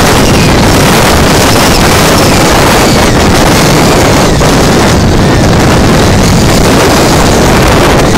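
Extreme storm wind, gusting to about 179 km/h, blasting the microphone: a loud, unbroken rushing and buffeting noise with heavy low rumble.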